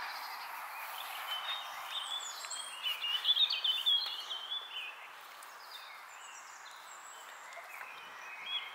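Small birds chirping and warbling in quick runs, busiest from about a second in to about four and a half seconds in and again near the end, over a steady background hiss.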